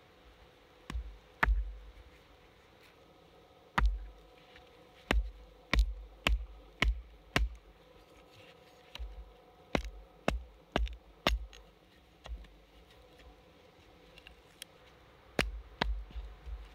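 Irregular series of sharp wooden knocks, each with a dull thud, in runs of strikes about half a second apart with short pauses: a small log being struck with a baton or mallet to split and shape it.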